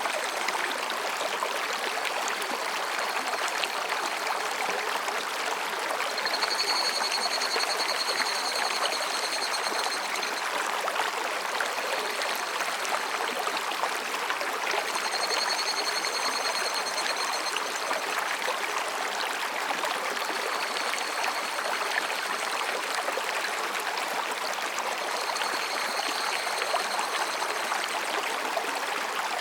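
Mountain stream babbling steadily over rocks. Over it, higurashi cicadas call in high-pitched trilling phrases of a few seconds each, three times most clearly: about a quarter of the way in, around the middle and near the end.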